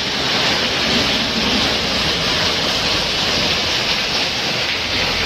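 Heavy rain pouring steadily onto a flooded road, a constant even hiss, as a box truck drives through the standing water.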